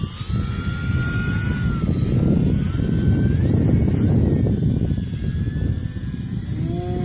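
Night Visionaire radio-controlled model airplane in flight, its motor and propeller giving a thin whine that rises in pitch about three seconds in and shifts up and down, over a loud low rushing noise.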